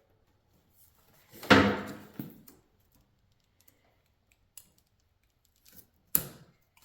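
Handling noise of Romex electrical cable as its outer plastic sheath is worked off by hand: short rustles and clicks, the loudest about a second and a half in and a sharp click near the end.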